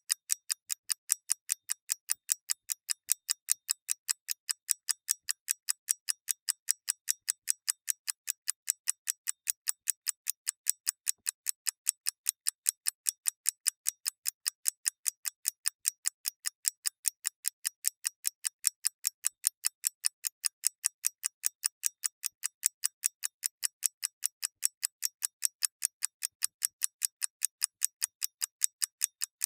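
Mechanical clock ticking steadily: quick, evenly spaced, crisp ticks, every other one slightly weaker, in an unbroken tick-tock rhythm.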